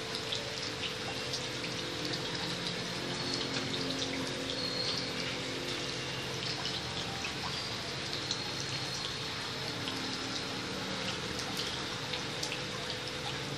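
Steady watery hiss with scattered fine crackles and ticks over a steady hum.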